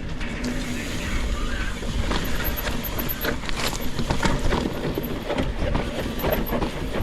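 Mountain bike rolling down a rough dirt trail: tyres on dirt and rock under a steady low rumble, with frequent irregular clattering knocks from the bike over the bumps.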